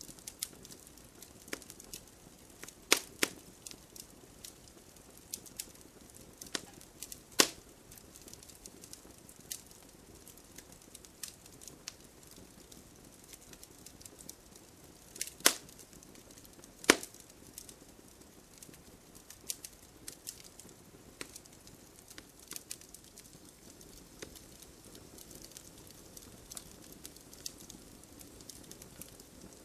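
Wood fire crackling: a faint steady hiss with scattered sharp snaps and small pops, and a few louder pops about 3, 7.5, 15.5 and 17 seconds in.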